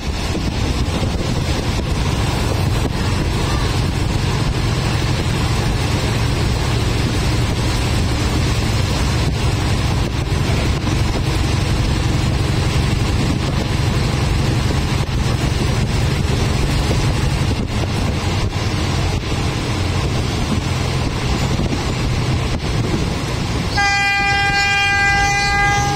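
Passenger train running along the rails, a steady rumble heard from inside the carriage. Near the end the train's horn sounds one long, steady note for about two seconds.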